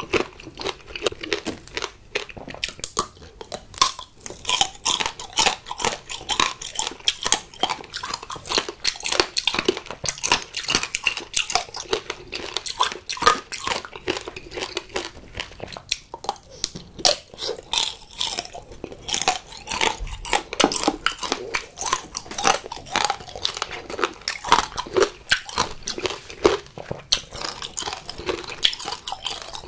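Close-miked eating of tanghulu: the hard, glassy sugar shell on skewered fruit cracking between the teeth in many rapid, sharp crunches, mixed with chewing.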